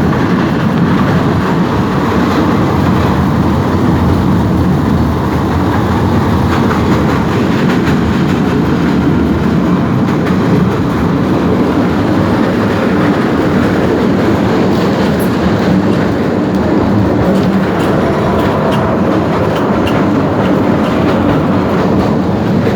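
Kryvyi Rih high-speed tram running along its track: a steady, continuous noise of wheels on rails and the moving car, with a few faint clicks.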